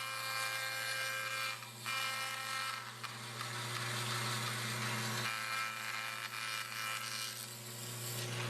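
Bandsaw running with a steady motor hum while its blade rips a thin strip of wood for splines; the cutting hiss swells and eases as the wood is fed.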